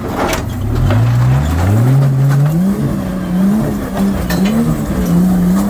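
A four-wheel drive's engine revving under load on a rock climb, its pitch rising in steps and then rising and falling as the throttle is worked, with a few sharp knocks.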